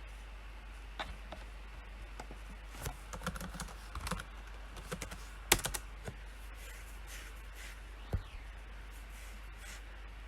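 PC keyboard typing: short, irregular runs of keystrokes with pauses between them, with one sharper, louder keystroke about five and a half seconds in. A steady low hum runs underneath.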